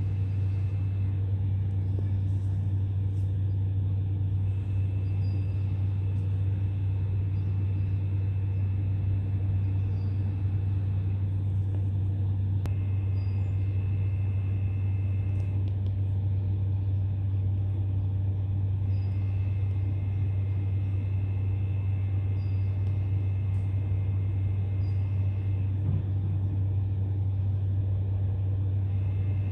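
Steady low mechanical hum at constant level, with a fainter high whine that comes and goes every few seconds.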